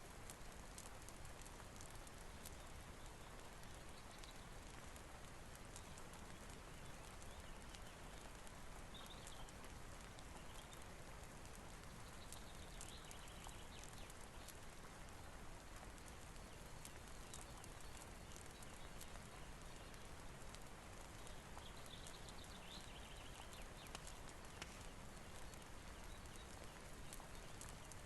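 Faint steady rain hiss with scattered light ticks of drops or fire crackle, and a few faint short high chirps, like birds, coming and going now and then.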